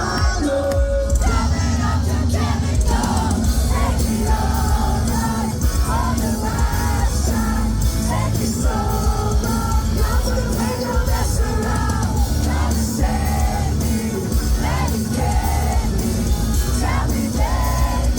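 Live rock band playing loud heavy music, with thick drums and bass under yelled, sung vocals.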